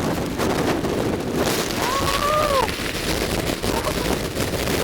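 Strong typhoon wind buffeting the microphone over heavy surf, a loud, continuous rushing noise with a low rumble. About two seconds in, a short whistle-like tone rises and falls.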